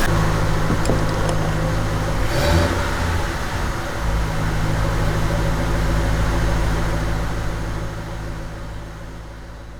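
The 1952 Ford panel truck's freshly revived engine idling steadily, with a short rise in pitch about two seconds in. The sound grows quieter over the last couple of seconds.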